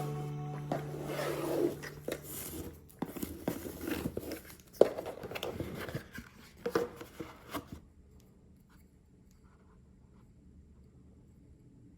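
Unboxing noises: rustling and scraping of packaging with irregular taps and a few sharper knocks, stopping about eight seconds in, after which it is near silence. Background music fades out in the first couple of seconds.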